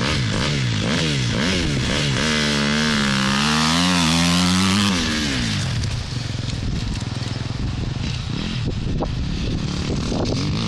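Two-stroke motocross bike engines revving, the pitch rising and falling in quick blips. About five seconds in, the loudest engine falls away and a rougher mix of engines carries on.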